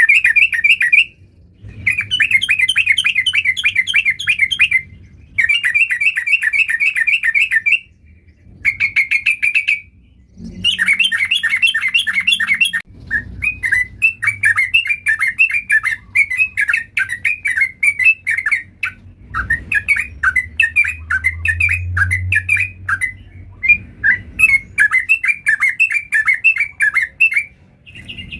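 Yellow-vented bulbul (trucukan) singing in quick chattering phrases. The first half comes in several bursts of a second or two with short pauses between; after about halfway the song runs on almost without a break.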